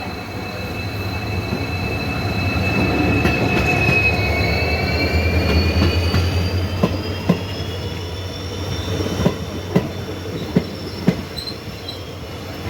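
Train wheels squealing on the rails, two high steady tones that slowly shift in pitch, over a rumble that grows loudest about four to six seconds in. From about seven seconds there are sharp knocks of the wheels over rail joints, several in irregular succession.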